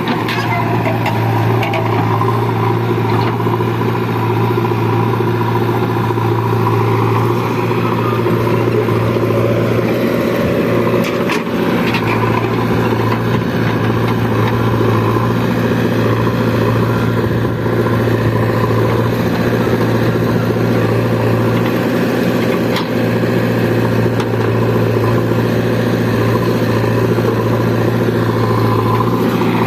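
Heavy diesel engine of earth-moving or farm machinery running steadily at an even speed, with a few brief knocks about a third of the way in.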